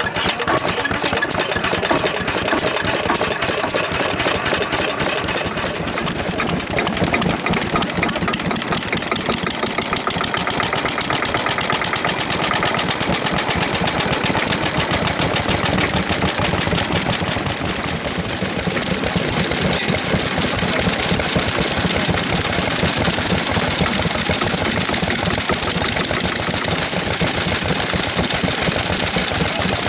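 Vintage stationary engines (hatsudōki) running steadily, a fast, even clatter of firing strokes.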